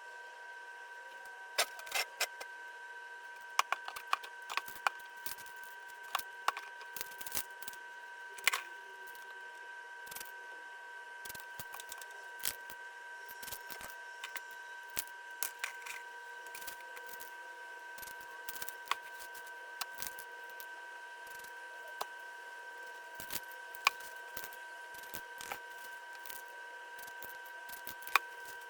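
Irregular small sharp clicks and taps, like objects being handled and set down, over a steady high two-tone hum.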